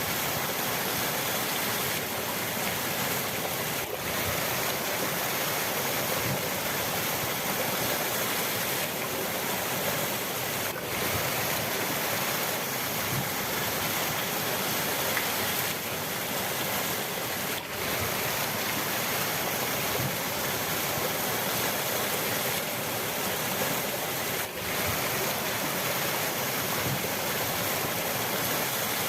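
Rushing river water, a steady full hiss of flowing water, with a brief dip in level about every seven seconds.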